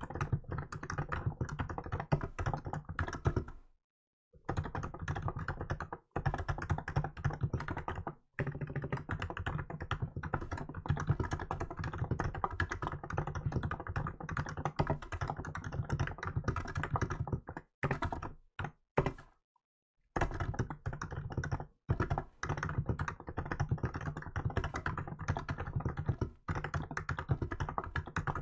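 Steady, fast typing on a Hansung GK868B electrostatic capacitive keyboard with milk keycaps: a dense run of soft key thocks, broken by brief pauses about 4 s in and again between 18 and 20 s.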